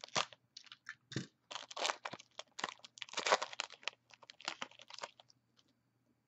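Wrapper of a Panini Prizm trading card pack crinkling and crackling as it is cut and pulled open, a dense run of crackles that stops about five seconds in.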